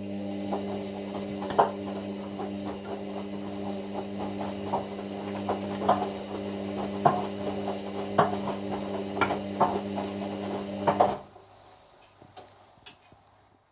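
Hoover washer-dryer's drum motor running with a steady hum as the drum turns slowly, with irregular knocks and clatter from the load tumbling. This is the slow-tumble load-weighing stage before the machine sets the wash time. The motor stops suddenly about eleven seconds in, and two sharp clicks follow.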